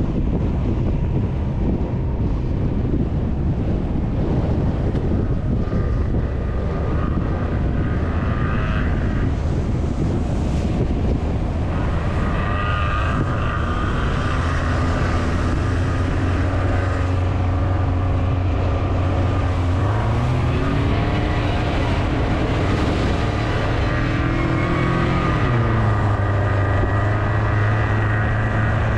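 T-REX quad bike engine running while riding, with wind buffeting the microphone at first. The engine note rises about two-thirds of the way through and drops back a few seconds later.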